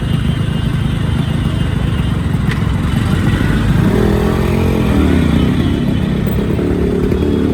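Yamaha two-stroke motorcycle engine running with a fast, crackling exhaust beat. About four seconds in it is revved once, the pitch rising and then falling back.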